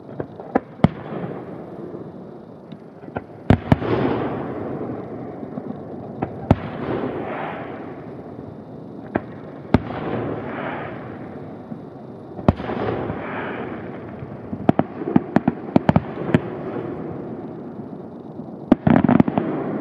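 Aerial fireworks shells bursting: sharp bangs every few seconds, each followed by a rolling rumble that lasts a second or two, with a quick run of bangs near the end.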